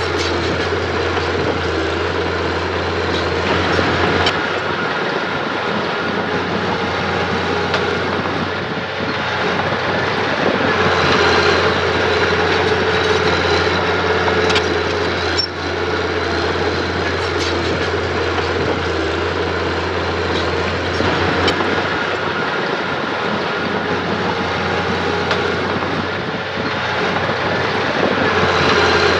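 Mitsubishi mini bulldozer's diesel engine running steadily under load, with occasional knocks from the machine as it works.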